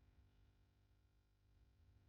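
Near silence with a faint low hum.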